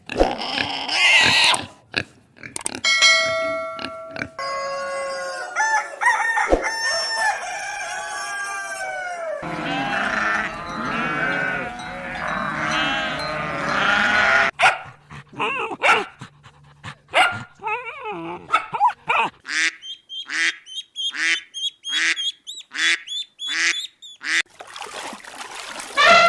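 A series of different animal calls one after another: pitched cries and honks, a dense overlapping flock chorus in the middle, then short calls repeating about twice a second near the end.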